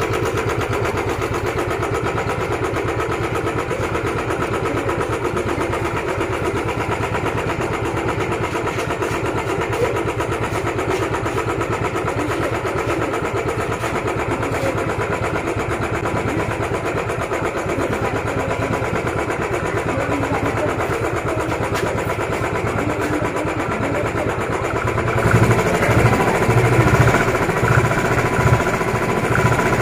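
Royal Enfield Bullet 350's single-cylinder engine running steadily, then revved harder near the end, the revs rising and falling unevenly.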